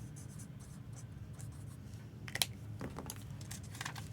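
Light scratching and tapping of small objects being handled on a desk, with a sharp click a little past halfway, over a steady low hum.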